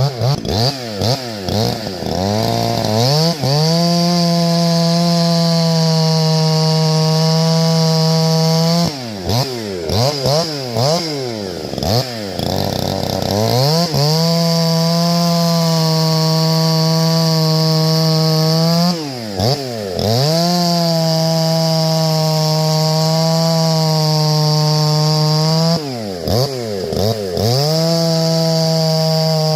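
Two-stroke chainsaw held at high speed for stretches of several seconds, dropping back between them with quick throttle blips up and down, four times over.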